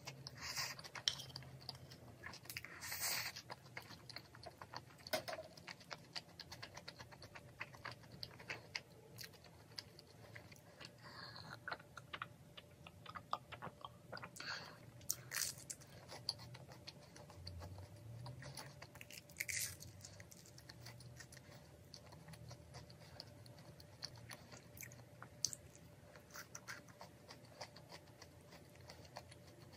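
Close-miked chewing of food, with wet mouth sounds and small clicks of chopsticks and a spoon against a ceramic bowl, and a drink from a glass mug partway through.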